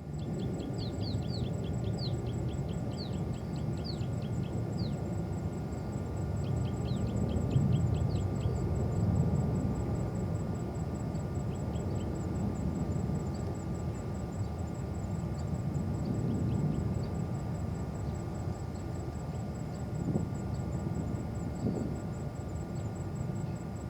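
Steady low rumble of distant jet aircraft, swelling gently now and then. Runs of short high chirps sound through the first few seconds, again around seven to eight seconds in, and briefly later.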